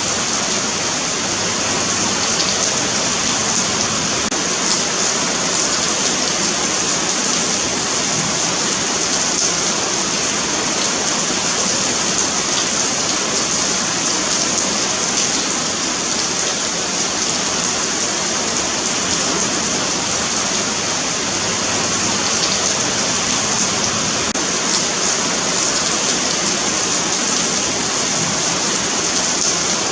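Steady rain falling on a paved sidewalk: a continuous hiss with many fine drop patters and no let-up.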